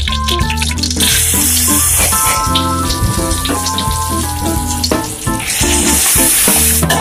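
Pounded chili paste sizzling in hot oil in a wok. The sizzle surges about a second in as the paste goes in, and again near the end as it is stirred. Background music plays over it.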